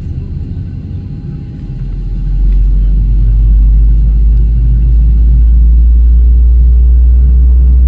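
Deep rumble in a Boeing 737-600's cabin that swells sharply about two seconds in, then holds loud and steady.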